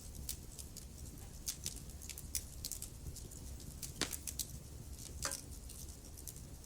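Wood fire crackling in a fireplace: a steady run of small sharp crackles over a low rumble, with two louder pops about four and five seconds in.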